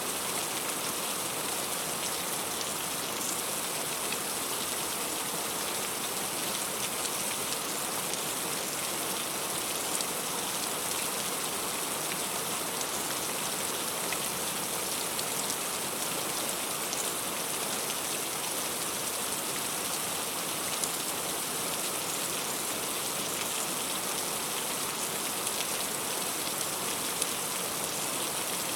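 Heavy rain falling steadily on fruit, an even hiss with a few separate drops ticking through it.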